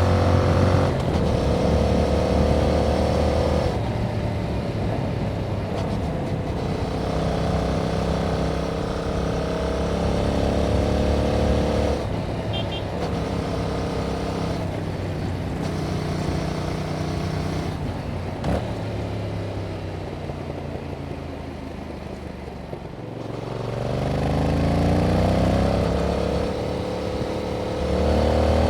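Yamaha MT-07's 689 cc parallel-twin engine on its stock exhaust, ridden under load and pulling up through the revs with gear changes. About three-quarters of the way through, the revs drop away and then climb steadily again.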